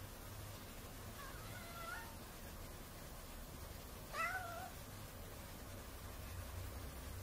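Domestic cat meowing twice: a faint meow about a second in, then a louder, short meow about four seconds in.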